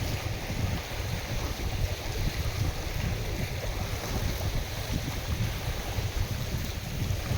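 Wind-driven lake waves washing and splashing, with gusts buffeting the microphone as a steady, fluttering low rumble.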